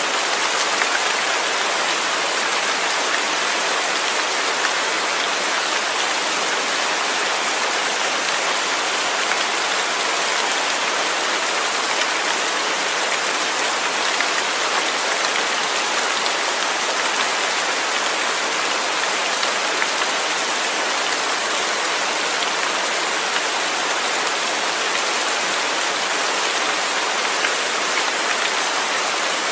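Steady rain falling, with a dense even hiss of drops and no breaks or changes.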